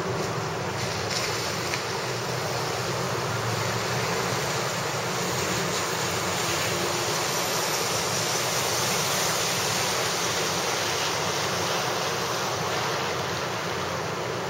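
Heavy wind-driven rain falling steadily on pavement and parked cars, a constant hiss that swells a little midway.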